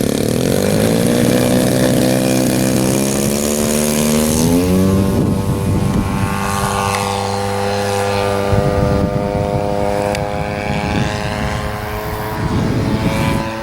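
50cc two-stroke gas engine and propeller of a large RC model airplane throttling up, its pitch climbing over the first five seconds, then running high and steady at full power, as on a takeoff run and climb-out.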